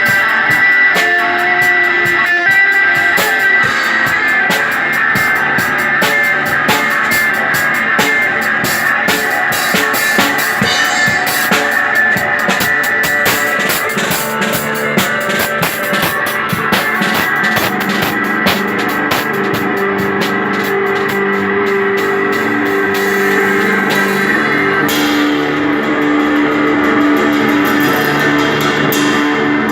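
Live instrumental rock played on guitar and drum kit, with busy cymbal and drum playing under the guitar. Near the end the drumming thins out and long held guitar notes come to the front.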